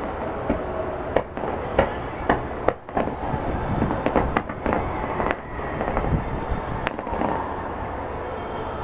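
Aerial fireworks bursting: an irregular run of sharp bangs and crackling reports over a steady background rumble.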